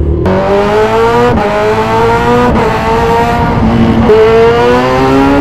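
Kawasaki Z1000 Sugomi's inline-four with an aftermarket exhaust accelerating hard: the engine note climbs through the revs, with three quick dips in pitch about a second apart as the rider shifts up through the gears.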